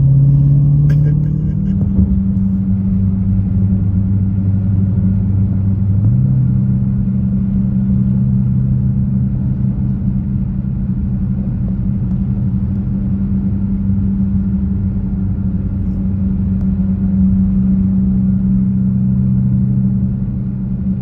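Muscle car engine running at a steady speed, a low steady drone that steps in pitch twice in the first six seconds and then holds.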